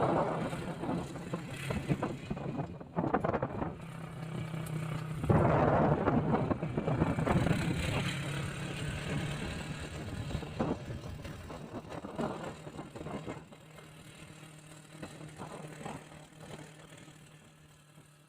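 A motor vehicle's engine running steadily under road noise and rattles. It fades gradually toward the end.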